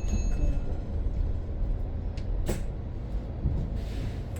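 Cabin noise inside a BYD BD11 battery-electric double-decker bus: a steady low rumble, a sharp click about two and a half seconds in, and a short hiss of air near the end.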